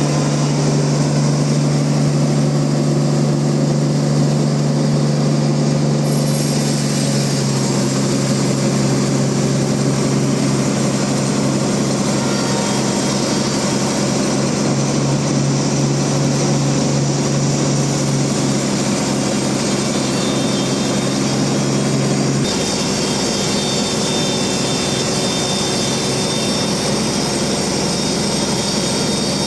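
Band sawmill running steadily through a large rain-tree log, its motor giving a loud, steady drone. The sound changes abruptly about 22 seconds in, the low hum dropping away and a brighter, hissier noise taking over.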